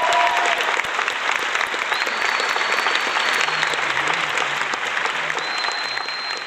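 Audience applauding steadily, with the last of the routine's music fading out in the first half second.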